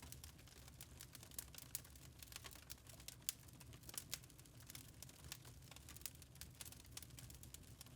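Wood fire crackling in a fireplace: faint, irregular snaps and pops over a low steady rumble, with a sharper pop about three seconds in.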